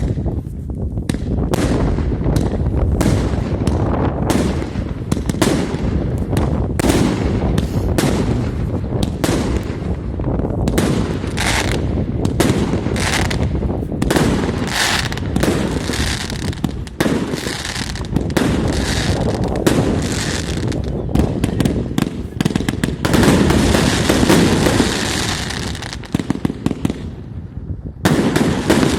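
UPA SU 30-65 multi-shot fireworks cake firing in rapid succession, several launch thumps and bursts a second, with a denser, louder stretch about three quarters of the way through and a brief pause near the end before it fires again.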